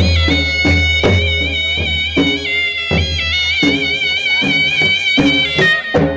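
Gujarati folk music for a Charani raas dance: a high, reedy, wavering melody held over a steady drum beat of about two to three hits a second.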